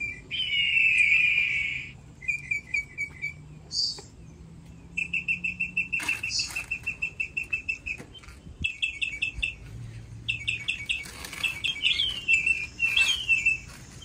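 Songbirds singing: quick runs of repeated chirps and trills, with one loud, longer call in the first two seconds and falling slurred notes near the end.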